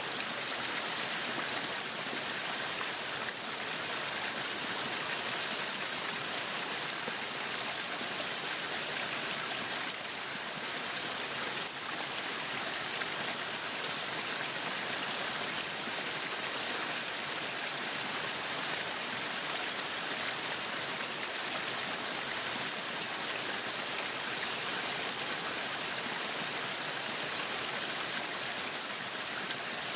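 Meat sizzling on a yakiniku grill: a steady, even hiss with no breaks.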